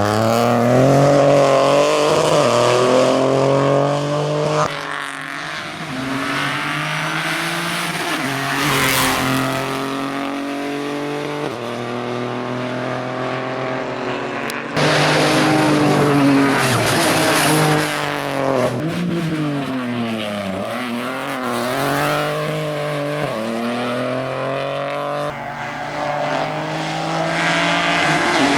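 Rally car engine revving hard through the gears as the car passes, its pitch climbing and dropping with each shift and lift-off, with some tyre noise on the gravel or tarmac. Several separate passes follow one another, each breaking off abruptly.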